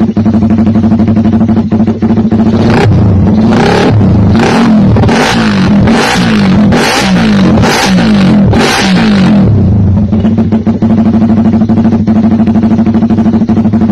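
Motorcycle engine with an aftermarket racing exhaust, idling and then blipped hard about eight or nine times in quick succession. Each blip rises and falls sharply before the engine drops back to a steady idle.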